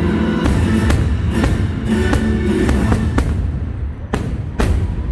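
Fireworks show music playing loudly over the park speakers, with a series of firework bangs echoing through it, the two sharpest near the end.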